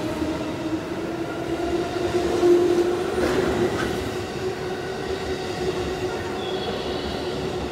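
JR West 221 series electric train moving past the platform at close range: a motor whine that climbs slightly and then holds steady over the rumble of wheels on rail, with a faint high squeal near the end.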